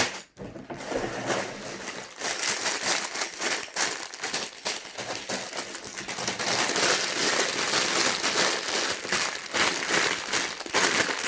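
Plastic bags of LEGO pieces crinkling and rustling as they are handled, with a brief pause just after the start.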